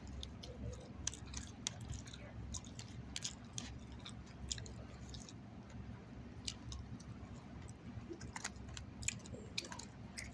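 A person chewing grilled chicken salad close to the microphone: many small, irregular wet mouth clicks and crunches.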